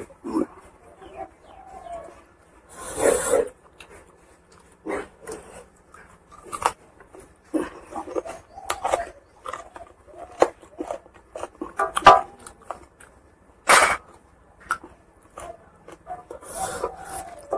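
Close-up eating sounds of a person chewing pork curry and rice: irregular wet smacks and mouth clicks, with a couple of louder smacks about three seconds in and near the end.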